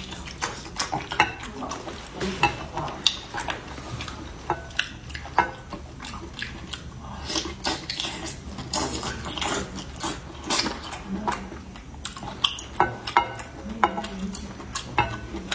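Close-miked eating sounds: many irregular short clicks and clinks of utensils against dishes while food is picked up, dipped and eaten.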